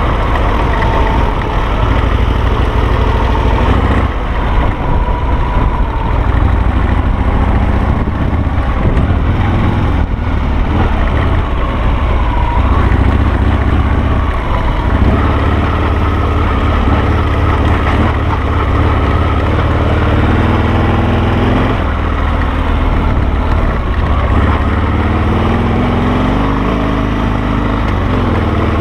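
Harley-Davidson Sportster V-twin engine of a Carducci SC3 dual sport motorcycle running under way, its revs rising and falling with the throttle.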